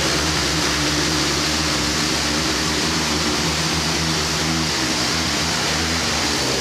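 Diesel locomotive engine idling steadily at a standstill, a low hum with a hiss over it; the hum shifts briefly about two-thirds of the way through.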